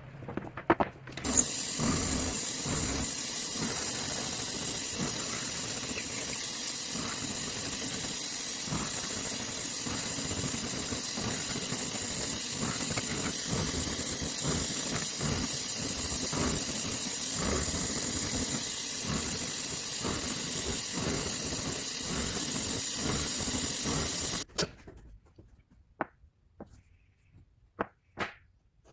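A woodworking shop tool runs with a loud, steady hiss for over twenty seconds, starting about a second in and cutting off abruptly near the end; a few light knocks follow.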